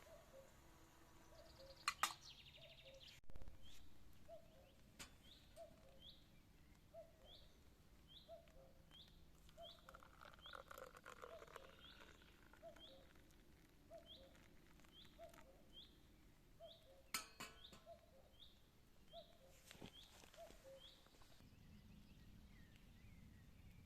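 Faint bird calls: a low short note and a high, upward-flicked chirp, each repeating steadily about every half second, with a few sharp clicks now and then.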